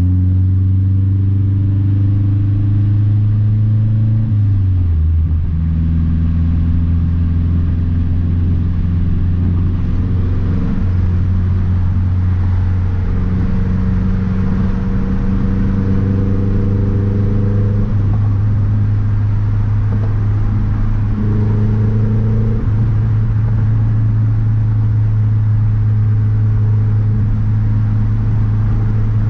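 Big-turbo 2012 Mazdaspeed 3's turbocharged 2.3-litre four-cylinder engine droning steadily while driving. Its pitch steps down once about four to five seconds in, then holds steady.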